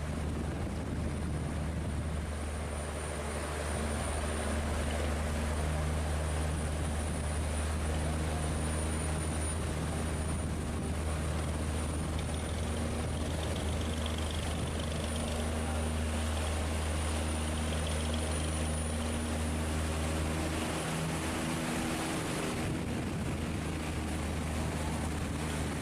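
Ship's engine running steadily, a deep drone with steady pitched tones over a constant rushing noise.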